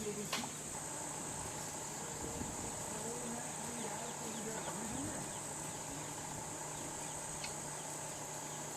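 Steady, high-pitched chorus of insects, with a sharp click just after the start.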